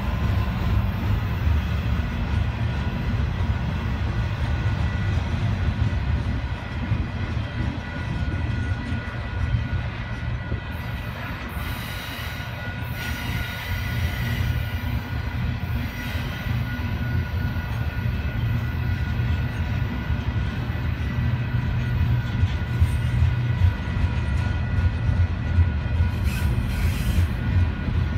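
Double-stack intermodal container cars rolling past: a steady low rumble of steel wheels on rail, with faint thin squeal tones from the wheels over it. A few brighter rattles come about halfway through and again near the end.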